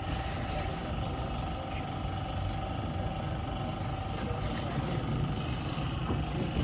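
Toyota Corolla GLI engine running steadily: a low rumble with a constant thin whine over it.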